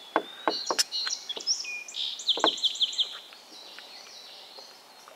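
Songbirds singing in the riverside trees: whistled notes, then a quick run of about eight high chirps between two and three seconds in. A few sharp knocks and clicks come in the first three seconds.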